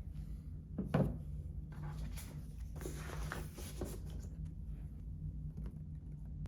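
Objects being handled and set down while a desk is tidied: a knock about a second in, then rustling and light clattering, over a steady low hum.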